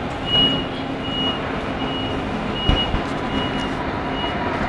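Door-closing warning beeps on a high-speed train: a high beep repeating about every 0.8 seconds as the automatic doors shut, over a steady hum, with a low thud about halfway through.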